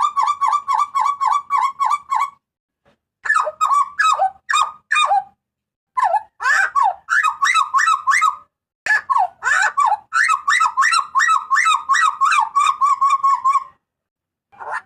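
Hooded butcherbird giving loud, shrill calls: rapid runs of repeated notes, about five a second, in four bursts with short silent breaks between them.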